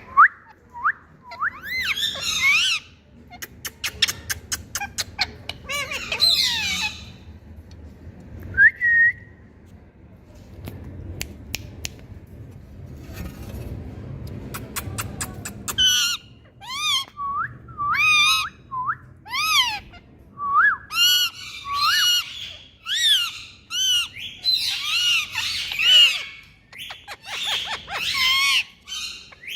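Rose-ringed parakeet calling: shrill squawks and chirps with runs of quick clicks, a quieter stretch in the middle, then a fast series of rising and falling shrieks through the second half.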